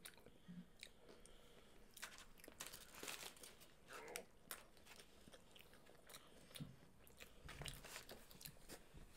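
Faint chewing and crunching of fast food, heard as a scatter of short crisp crunches that are busiest a couple of seconds in.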